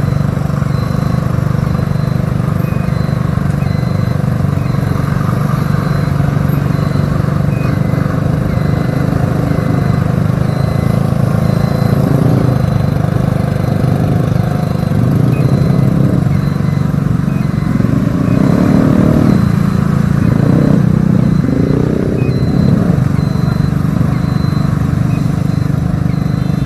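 Motorcycle engine running steadily while riding, with low wind rumble on the microphone; the engine note rises and falls several times about two-thirds of the way through.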